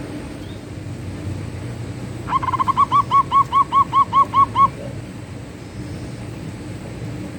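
Zebra dove (perkutut) song: a quick stutter of short notes running straight into about ten evenly spaced, rounded coos, roughly five a second, for a couple of seconds, over a steady low background rumble.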